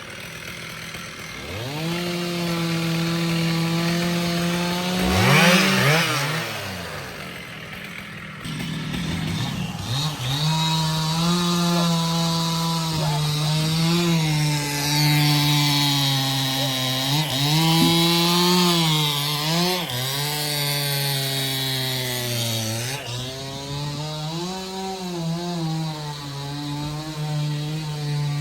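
Stihl two-stroke chainsaw run at high revs and cutting wood. The engine note rises about a second and a half in and drops away around five to six seconds in. It picks up again about ten seconds in, then dips and recovers over and over as the chain loads up in the cut.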